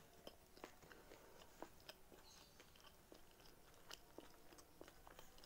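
A person chewing a mouthful of fried batagor in peanut sauce. Faint, irregular small clicks and smacks of the chewing.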